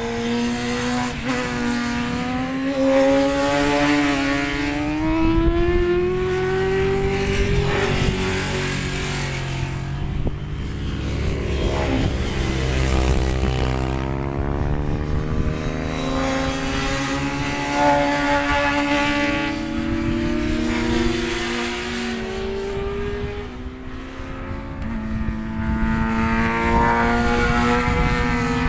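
Racing motorcycles at high revs on a circuit, with more than one engine heard at once. Their pitch climbs through each gear and drops sharply at the shifts, then climbs again.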